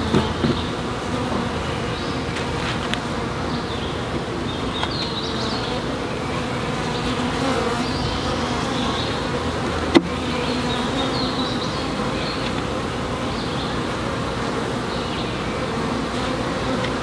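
A mass of honeybees from a newly hived swarm buzzing as a steady, dense hum around the opened box as its frames are worked. There is one sharp click about ten seconds in.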